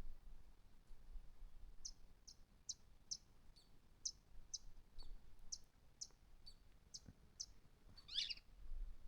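Birds singing faintly: a run of short, high chirps, about two a second, starting about two seconds in, then a longer, more complex call near the end.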